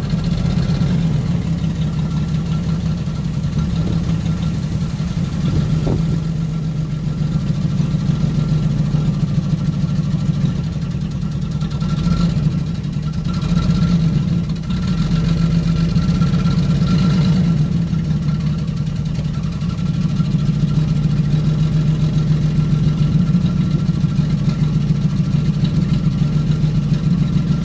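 Jaguar XJ-S engine running steadily at a low idle. The revs lift briefly a couple of times around the middle as the car creeps forward a short distance.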